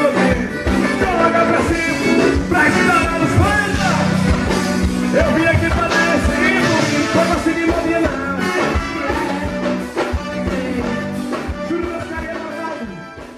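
Live forró band music with a steady beat and a singing voice, fading down near the end.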